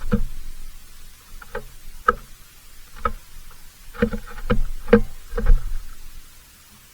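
A series of irregular knocks or clunks, about a dozen over six seconds, the loudest between about four and five and a half seconds in.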